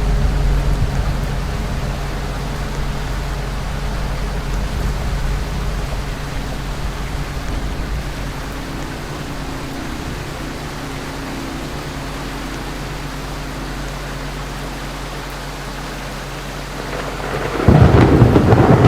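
Ceiling fan running: a steady low motor hum under a rushing, rumbling noise that eases off slowly over several seconds. Near the end, a sudden much louder rumble.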